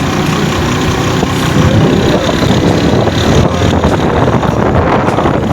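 Steady vehicle engine and road noise heard while riding along a busy road, with a low rumble underneath.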